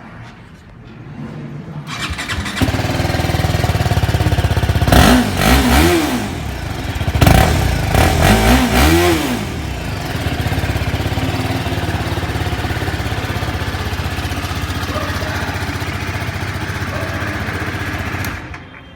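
TVS Apache RR310's single-cylinder engine starting about two seconds in and idling, blipped up twice in quick pairs a few seconds later. It settles back to a steady idle, then cuts off suddenly near the end as it is switched off.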